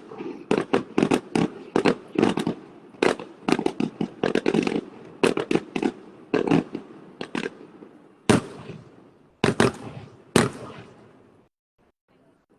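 Fireworks going off in a rapid, uneven series of sharp bangs and crackles, the loudest bursts coming near the end before they stop about a second before the end.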